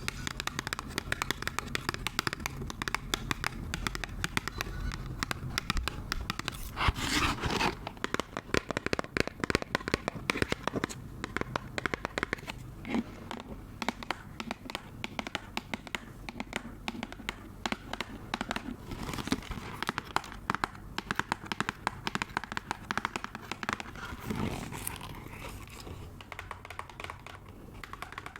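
Close-miked crinkling and crackling of something being crumpled and scratched by hand, a dense run of fast small crackles, loudest about seven seconds in.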